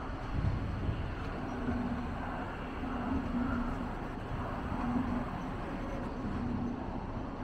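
Train at a railway station: a steady low rumble with a low hum that swells and fades about every second.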